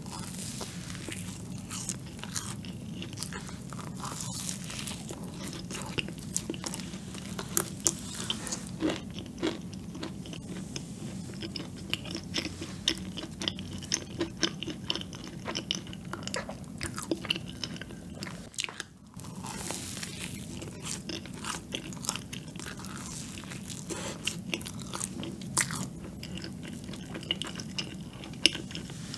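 Close-miked biting and chewing of a large cream-filled donut topped with chopped hazelnuts, with light crunches and many small crisp clicks.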